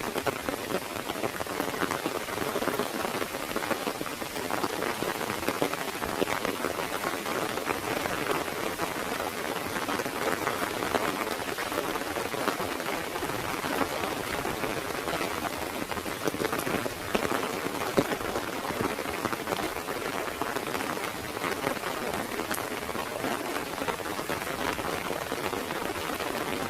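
Heavy rain falling steadily, dense patter of drops drumming on an umbrella.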